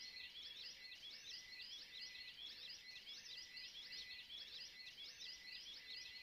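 Faint birdsong: rapid high chirps repeating several times a second without a break.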